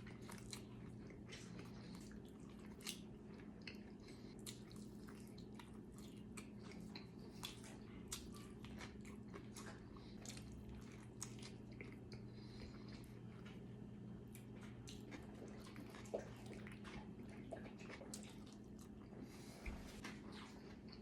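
A person chewing an egg-and-chicken-salad taco: faint, scattered mouth clicks and smacks over a steady low hum.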